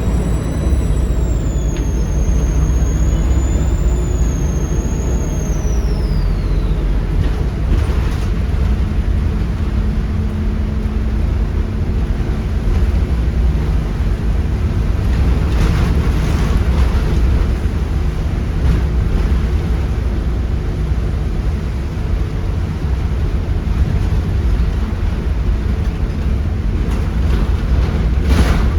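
Volvo B7RLE bus's 7.3 litre Volvo D7C diesel engine running with a heavy low drone. A high turbo whistle rises and falls over the first few seconds, and there are a couple of brief rattles later on.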